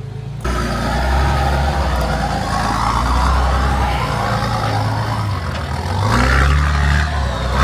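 Off-road 4WD's engine working at low speed over a rocky track, the revs rising and falling, with a climb in revs about six seconds in.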